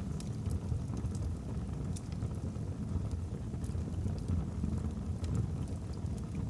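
Wood fire burning in a fireplace: a steady low rumble of flames with small, scattered crackles and pops from the logs.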